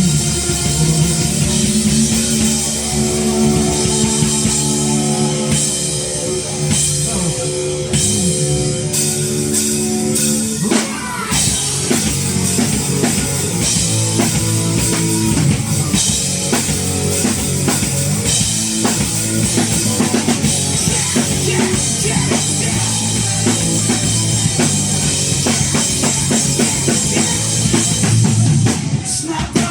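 Rock band playing live with drum kit and guitars in an instrumental passage with no singing. The music changes to a denser, busier section about ten seconds in.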